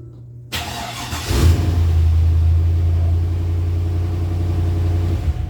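Chevrolet Silverado pickup's engine being started on a newly installed fuel pump: a faint steady pump whine at first, then the starter cranks for under a second, the engine catches and revs, and runs steadily and loudly for about four seconds before dropping off sharply near the end.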